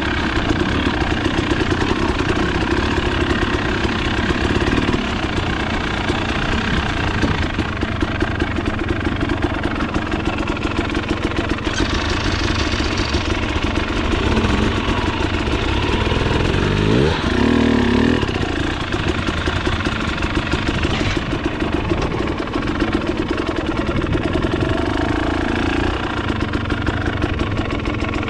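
Trail motorcycle engine running under way, the revs rising and falling with the throttle, with a quick climb in pitch about two-thirds of the way through.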